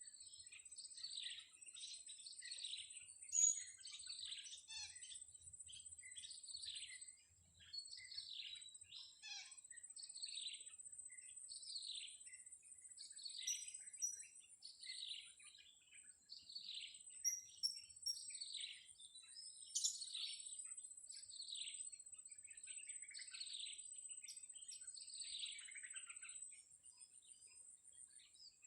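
Blue-crowned hanging parrots calling: a steady run of short, shrill chirps that fall in pitch, about one to two a second, over a thin, steady high-pitched whine.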